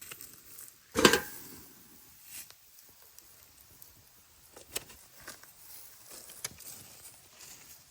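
A single sharp knock with a short ring about a second in, then a few scattered light clicks and taps, like things being handled and set down.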